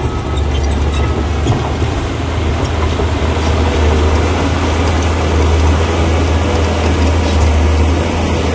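Crawler bulldozer's diesel engine running steadily with a deep hum, under a constant mechanical clatter.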